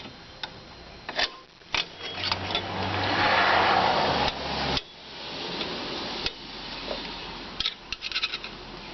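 Metal tools working on rear drum brake hardware as the upper return springs are pried off. A long scraping rub about two to five seconds in stops suddenly, with sharp metallic clicks before it and a run of clinks near the end.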